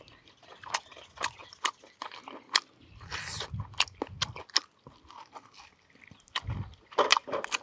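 A man eating roasted pork head close to the microphone: mouth-close chewing and biting with irregular sharp crunches and smacks, several a second, and a longer stretch of chewing about halfway through.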